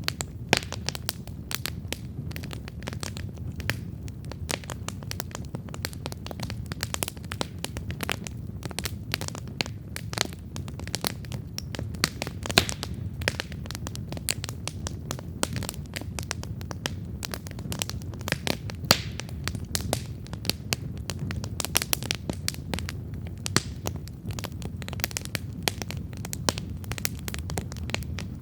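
Wood campfire burning steadily, with dense, irregular crackles and occasional louder pops over a low, steady rumble of the flames.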